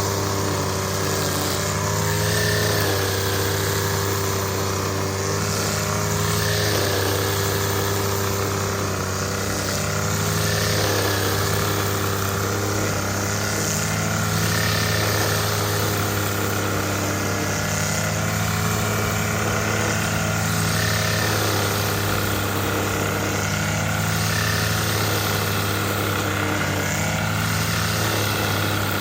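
Small petrol engine of a string trimmer running steadily, its pitch holding almost level with slight wavers.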